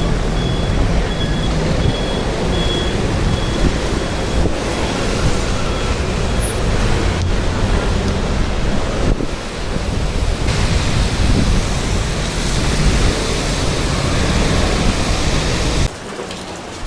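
Steady loud road traffic noise with a low rumble, mixed with wind buffeting the microphone. A vehicle's reversing beeper pulses about twice a second for the first few seconds and fades. The rumble drops off suddenly near the end.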